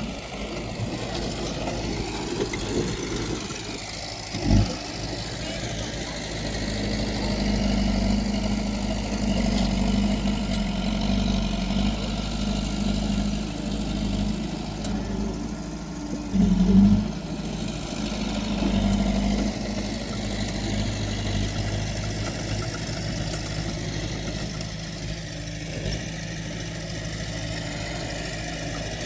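Diesel engine of earthmoving machinery running steadily, with a short sharp knock about four seconds in and a louder brief surge near the middle.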